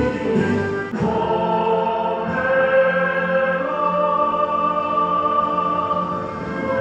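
Music: a choir singing long, held chords.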